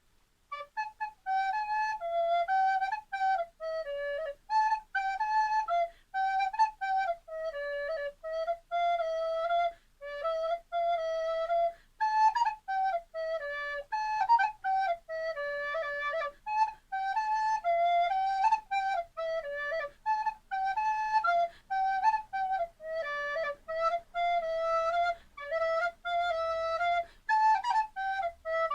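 Recorder (flûte à bec) playing a simple melody in short phrases of separate notes, with brief breaks between phrases.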